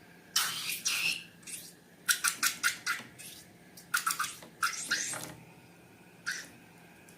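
Slime being squeezed and worked by hand: wet squelches and quick runs of sharp crackling clicks from air pockets in the slime, quieter near the end.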